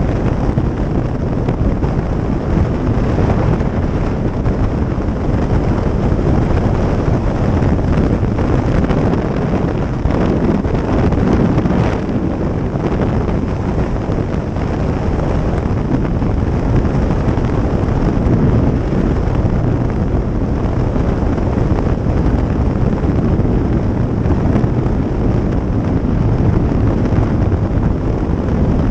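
Steady wind noise buffeting the microphone on a moving motorcycle, with the motorcycle's running noise underneath.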